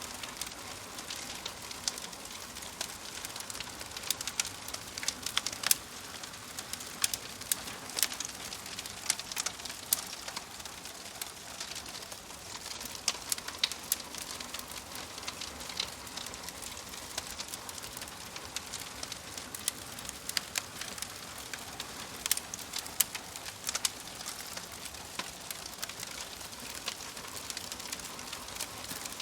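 Wood fire burning in a fireplace: a steady hiss with many irregular sharp crackles and pops from the logs.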